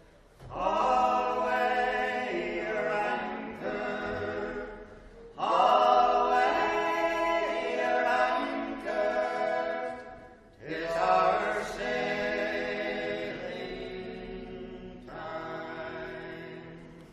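A group of voices singing a sea shanty unaccompanied, in three long phrases with brief pauses for breath between them.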